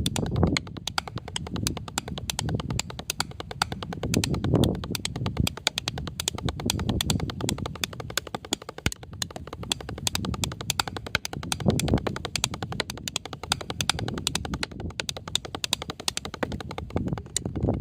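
Drums played with a fast, unbroken run of sharp strokes, with heavier low swells every few seconds.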